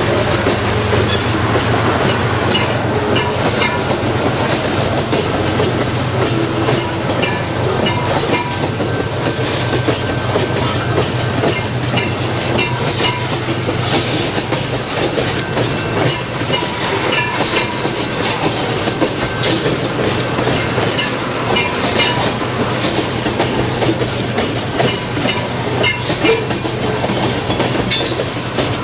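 Canadian Pacific freight train rolling past at close range: the steady rumble of freight cars with wheels clicking over the rail joints.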